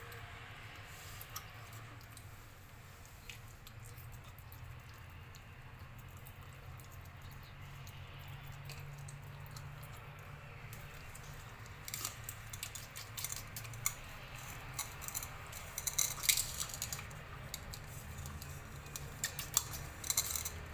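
Kitten eating, with irregular wet clicks and smacks of chewing that grow dense about halfway through, over a steady low hum.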